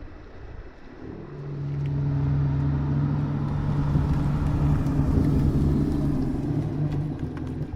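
A car's engine running at a steady low speed as it drives slowly past, its rumble coming in about a second in, growing louder through the middle and easing slightly near the end.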